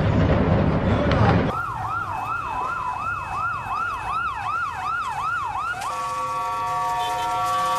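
A loud, rough noise that cuts off after about a second and a half, then an emergency vehicle siren on a fast yelp, rising and falling about three times a second. Near the end it switches to a steady, multi-tone horn blast.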